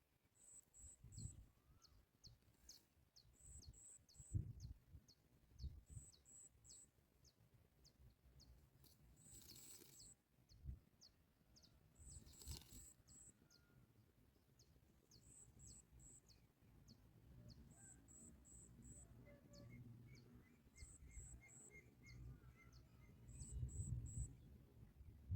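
Faint, high, thin bird chirps repeated in quick groups of two to four, each with a short falling note, over a low rumble with occasional soft knocks.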